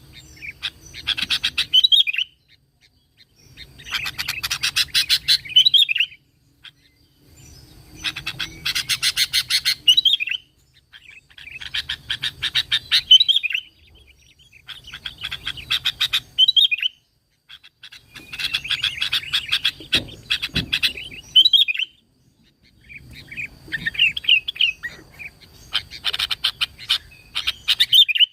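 Sooty-headed bulbul (kutilang) song: bouts of about two seconds of rapid chattering notes, each ending in a short whistled phrase, repeated about seven times with short pauses between.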